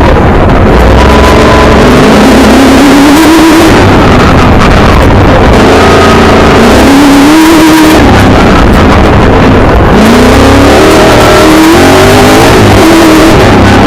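Milner R5 race car's 5-litre V8 heard from inside the car, pulling hard with the revs climbing and falling several times as the driver accelerates and lifts. The recording is overloaded throughout, with a heavy wash of noise under the engine.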